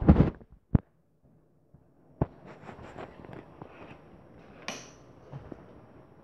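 Someone moving about: scattered clicks, knocks and rustles, with a sharp knock about two seconds in and a brief hiss near five seconds.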